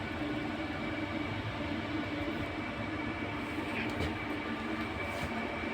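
Air-conditioning unit running, with a steady mechanical hum and a few constant tones from its compressor and fans. There is a short click about four seconds in.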